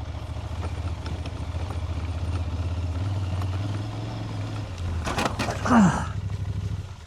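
Aprilia Tuareg 660's parallel-twin motorcycle engine running steadily at low revs. About five seconds in comes a loud brief clatter and a short cry that falls in pitch, the loudest moment.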